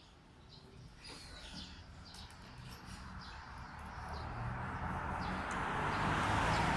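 Scattered bird chirps, while a rushing noise swells steadily through the second half.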